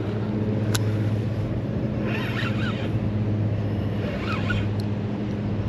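Steady low mechanical hum over a constant rushing background, with a single short click about a second in.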